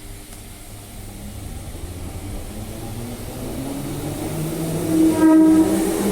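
Perth suburban electric train drawing near, its traction motor whine rising in pitch and growing steadily louder. A short, strong tone sounds about five seconds in.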